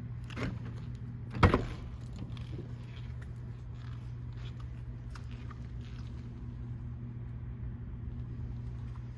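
A pickup truck door latch clicking open with one sharp snap about a second and a half in, followed by a few faint handling clicks over a steady low hum.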